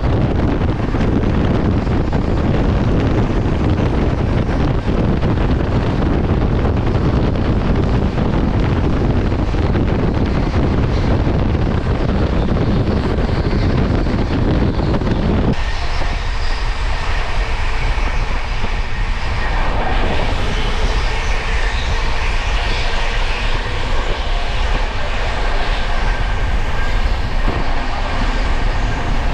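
Express train coach in motion: a steady, loud rumble of a train running at speed. About halfway through the deep rumble drops away suddenly, leaving a higher, hissier running noise with faint steady tones.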